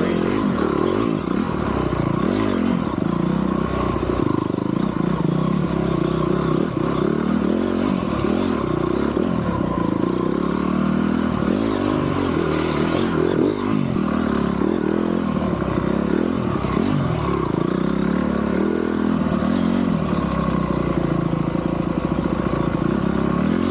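Honda CRF250 dirt bike's single-cylinder four-stroke engine running under load on a trail ride, its pitch rising and falling repeatedly as the throttle is opened and eased.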